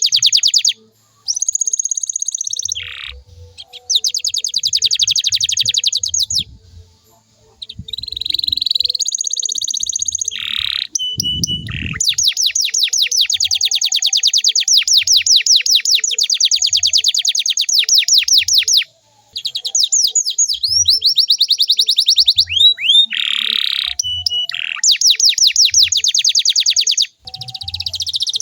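Canary singing: long, fast trills of rapidly repeated notes, broken by short pauses, whistled glides and sharp down-slurred notes. This is a lure song (pancingan) meant to stimulate other canaries to sing.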